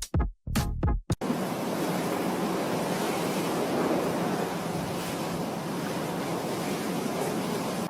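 Electronic music with a thumping beat cuts off about a second in. A steady rushing noise follows for the rest of the time.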